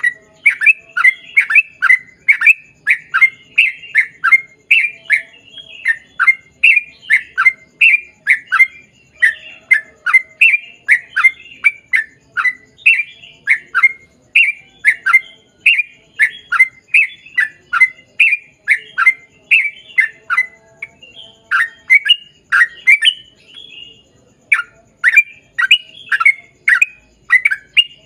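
Yellow-vented bulbul (trucukan) singing a long, fast run of short, sharply falling whistled notes, about two a second, broken by short pauses near the end.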